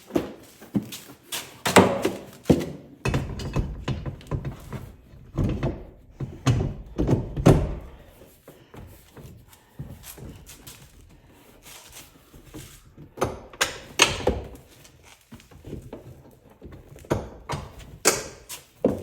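Irregular thunks and knocks from mounting hardware being handled and fitted, with a run of heavier low thuds a few seconds in.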